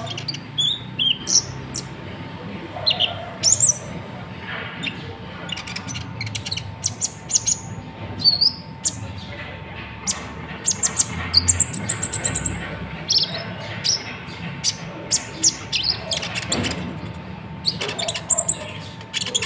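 Konin (kolibri ninja) songbird singing: a run of sharp high chirps and short sliding whistles, with a brief held high trill about eleven seconds in, mixed with many sharp clicks. A faint steady hum runs underneath.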